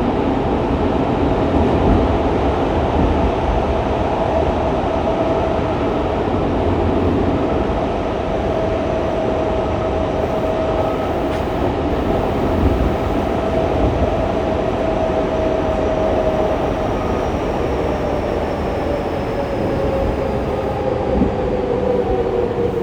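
Fukuoka City Subway 2000 series train with a Hitachi GTO-VVVF inverter, heard from inside the car: the steady running rumble of wheels on rail under the inverter and traction-motor whine. In the second half the whine falls steadily in pitch as the train slows for the next station.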